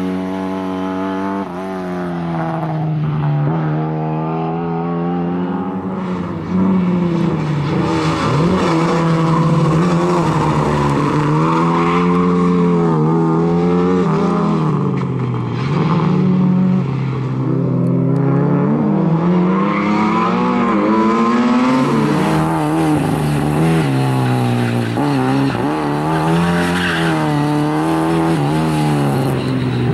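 Lada 2107 rally car's four-cylinder engine revving hard and easing off again and again as the car is thrown through a tight course, its pitch rising and falling every few seconds.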